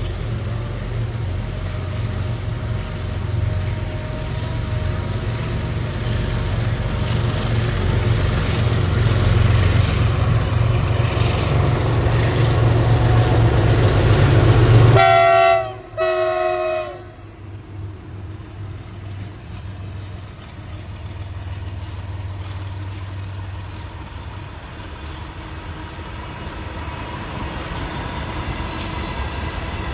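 Indian Railways freight train running, a heavy rumble that builds steadily, then two short horn blasts from the locomotive about halfway through. After the horn the rumble is suddenly much quieter and carries on steadily.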